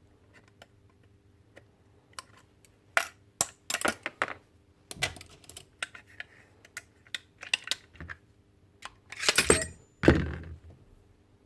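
Small metal and plastic parts of a dismantled Paslode IM65A nail gun clicking and clattering as they are handled and set down on a hard surface, with louder clatters about three to four seconds in and again near the end.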